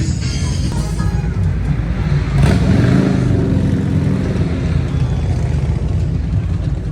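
Car engine running loud and low, swelling about two and a half seconds in, then falling back in pitch.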